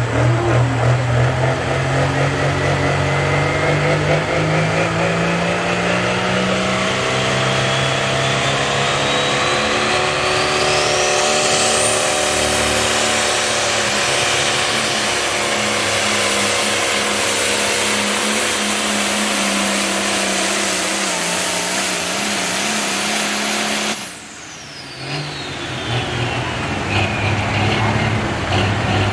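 Turbocharged diesel pulling tractor at full throttle: the engine climbs in pitch while a high turbo whistle rises over about twelve seconds and then holds. After about twenty-four seconds the throttle is cut suddenly, the engine drops back to idle and the turbo whine winds down.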